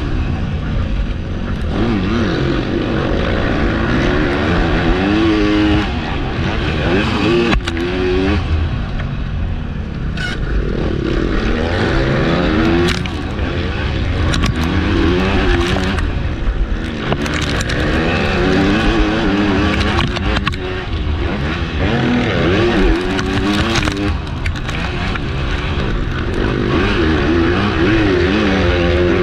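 MX2 motocross bike engine at race pace, revving up and falling back over and over through gear changes and throttle work, with a broad rushing noise and a few sharp knocks.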